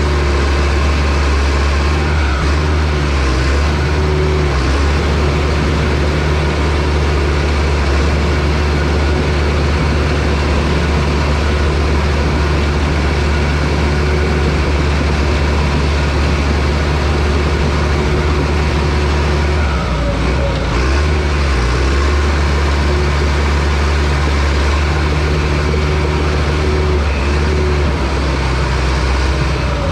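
Heavy diesel engine of a bulldozer running steadily, close and loud, with a brief change in its note about two-thirds of the way through.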